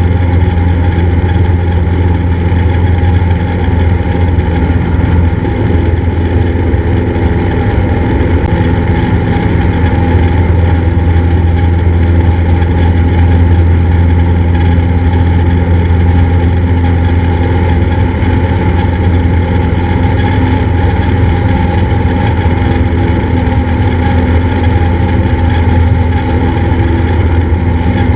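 Cessna 172's single piston engine and propeller running at a steady power setting, a loud even drone that holds its pitch.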